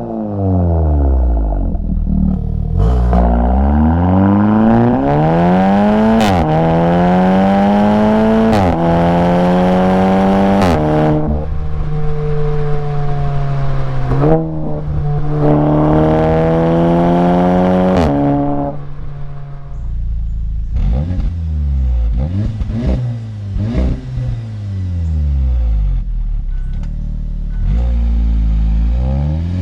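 Audi S3's turbocharged four-cylinder engine pulling through several quick upshifts, its exhaust note climbing and then dropping at each shift with a sharp crack. It then holds a steady cruise, eases off and revs up again near the end.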